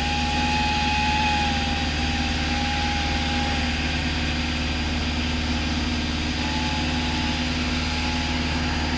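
Cessna 172 piston engine and propeller droning steadily in cruise, heard from inside the cabin. A thin whistling tone sounds over it for the first few seconds, stops, and comes back about six seconds in; the pilot puts this noise down to the wind going through part of the airframe.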